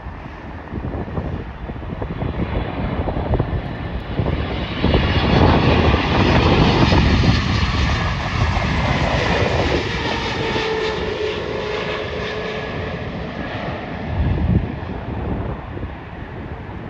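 Jet airliner passing on its landing approach: engine noise swells to a peak about five seconds in and slowly fades, with an engine whine that falls in pitch as it goes by. Wind buffets the microphone throughout.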